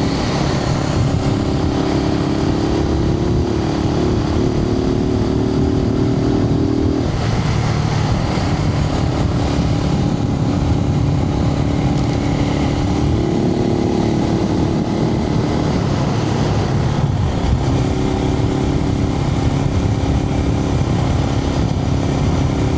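Suzuki TU250X's single-cylinder engine running under way, heard from a microphone inside the rider's helmet. Its note changes a few times, dropping about a third of the way in and again past the middle, then picking back up.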